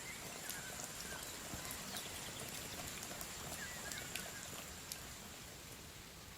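Quiet outdoor forest ambience: a steady hiss with a few faint, short bird chirps and scattered light ticks.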